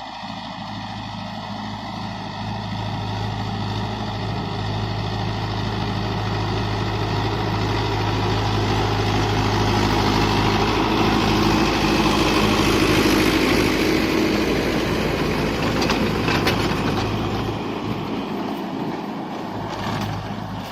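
Tractor diesel engine running, growing steadily louder to a peak about two-thirds of the way through and then fading again, as a tractor draws near and moves away.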